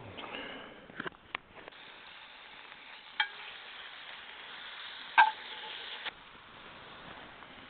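Chicken sizzling as it fries in a pan, with a few sharp clinks of a utensil against the pan, the loudest about five seconds in. The sizzle grows louder after the first couple of seconds, then drops back near the end.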